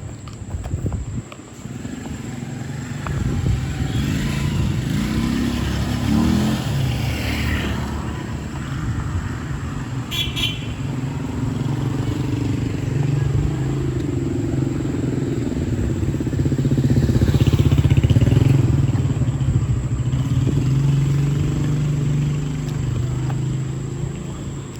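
A vehicle engine running close by; its pitch rises about five seconds in as it speeds up, then holds steady, getting loudest around eighteen seconds in.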